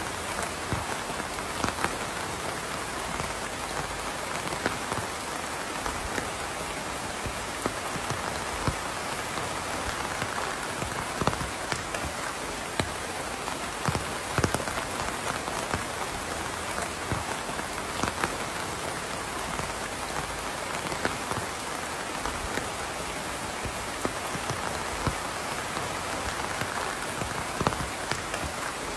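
Steady rain falling, with frequent individual drops ticking sharply on a hard surface.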